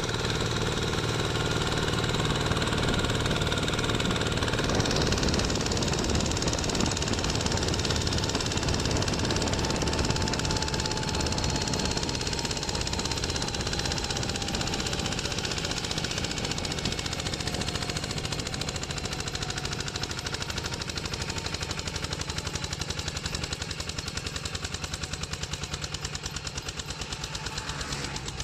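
Kubota RT walking tractor's single-cylinder diesel engine running with a fast, even chugging beat, growing gradually fainter over the second half.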